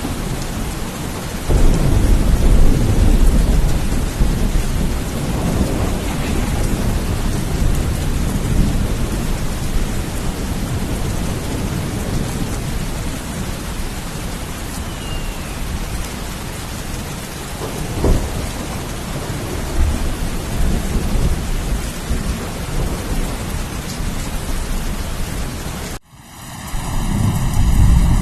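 Steady heavy rain with rolling thunder: a loud low rumble about two seconds in and another crack and rumble around two-thirds of the way through. Near the end the rain cuts out suddenly and a different low rumble swells in.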